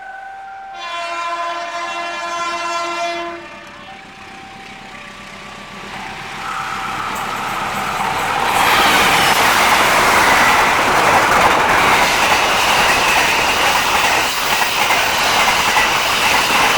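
A level-crossing warning alarm sounds in stepping tones while a train's locomotive horn blows one long blast about a second in; from about six seconds the train approaches and passes at speed, a loud, steady rush of wheels on rail that holds to the end.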